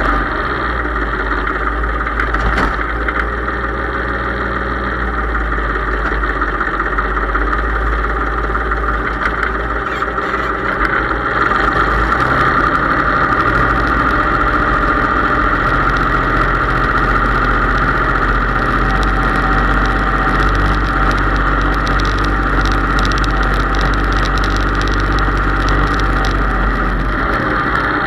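Case IH 3220 tractor engine running steadily, getting slightly louder about eleven seconds in.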